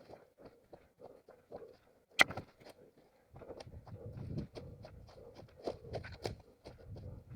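An orienteer's running footsteps on forest ground, about three steps a second, with one sharp crack a little over two seconds in. The steps turn louder and more rustling from about halfway through.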